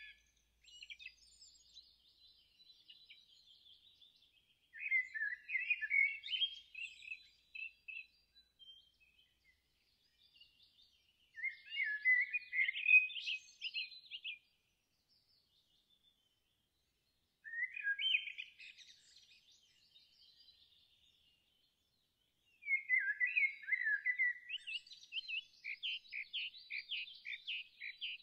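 A songbird singing: phrases of rapid warbling chirps a few seconds long, repeated about every five to six seconds with short quiet gaps between them, the last phrase running on longer near the end.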